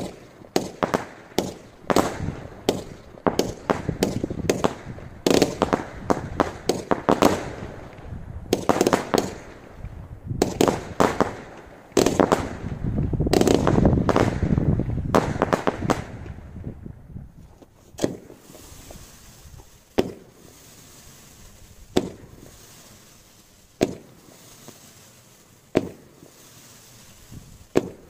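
Low-noise consumer fireworks: a rapid run of small pops and crackles for about the first seventeen seconds, with a louder rushing hiss in the middle. Then single sharp shots come about every two seconds.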